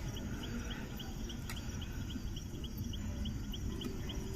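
An insect chirping in an even, high-pitched run of about four short chirps a second, over a low rumbling noise. About a second and a half in, a single sharp crack is heard, which may be the burning bonfire.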